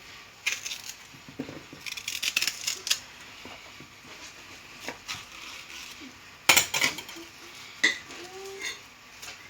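Knife and metal roasting rack clinking and tapping while plantains are peeled and laid on the rack. Scattered clicks with a quick cluster about two seconds in and a sharper knock about six and a half seconds in.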